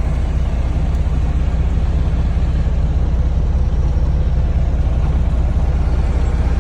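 Dump truck's diesel engine running steadily with a deep, even rumble.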